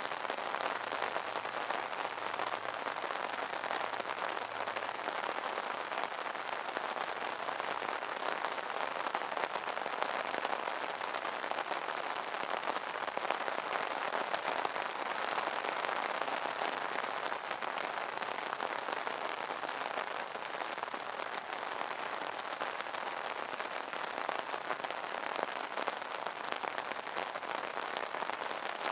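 Rain falling on an umbrella: a steady, dense patter of drops on the canopy.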